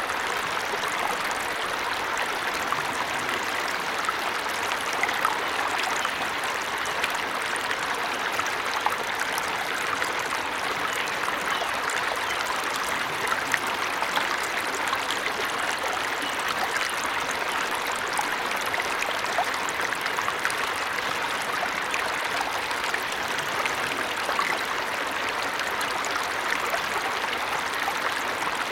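Steady rushing and splashing of a small waterfall or stream, with fine trickling detail and no clear bird calls.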